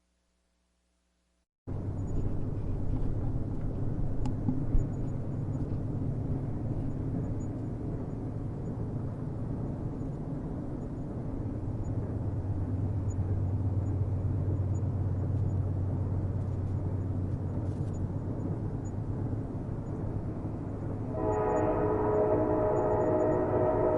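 Train rumbling steadily after a second and a half of silence at the start. About 21 seconds in, a train horn begins one long blast of several notes together, still sounding at the end.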